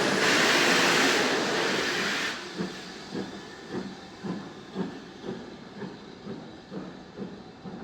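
Steam locomotive 80097, a BR Standard Class 4 tank engine: a loud steam hiss that cuts off suddenly about two seconds in, followed by a steady run of soft beats about two a second.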